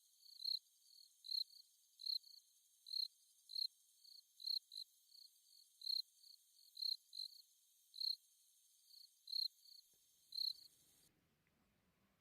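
Insect chirping, cricket-like: a high chirp repeated roughly once a second, cutting off abruptly near the end.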